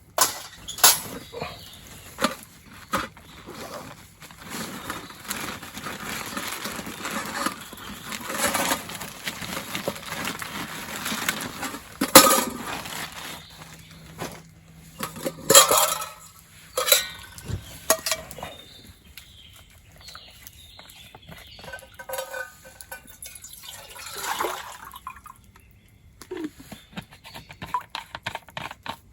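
Metal camp cookware clinking and knocking as it is handled while water is readied to boil for coffee, with a long stretch of water pouring in the first half.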